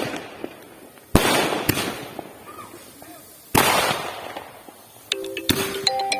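A 30-shot fireworks cake firing its shots one at a time: three loud bangs about two seconds apart, each followed by a fading crackle. Music comes in near the end.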